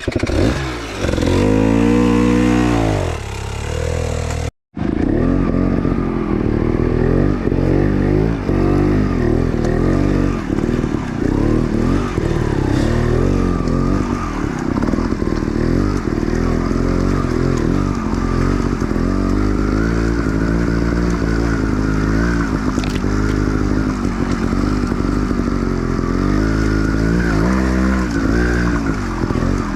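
Off-road dirt bike engine revving hard, its revs rising and falling over and over as it is worked up a rough climb, with clattering and scraping. The sound cuts out for a moment about four and a half seconds in.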